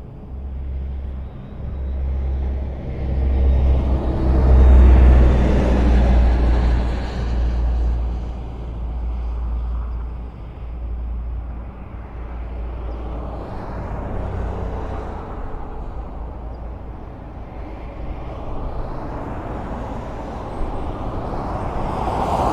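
Highway traffic: a steady wash of tyre and engine noise over a deep rumble. It swells loudest about five seconds in as a vehicle passes close, then eases and builds again near the end.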